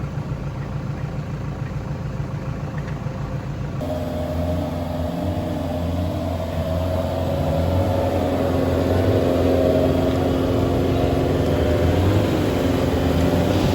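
Off-road vehicle engines running. About four seconds in, a steadier, louder hum with a held whining tone comes in and grows louder.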